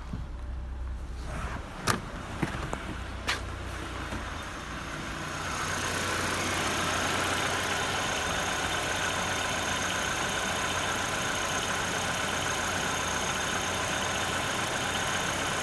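VW Passat B5's 1.8-litre turbocharged four-cylinder (AEB) engine running, with two sharp clicks about two and three seconds in. About five seconds in the sound grows louder and holds steady, with a faint steady high whine.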